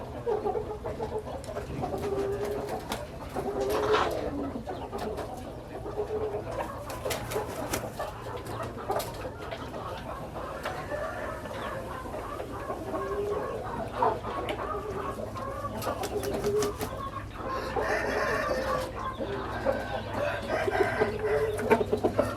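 Chickens clucking, with many short calls scattered through the stretch and a louder burst of calling about four seconds in and again near the end.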